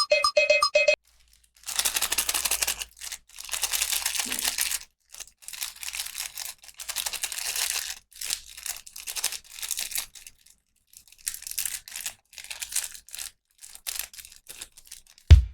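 Plastic toy packaging being torn open and crinkled, in irregular rustling bursts of a second or two with short gaps.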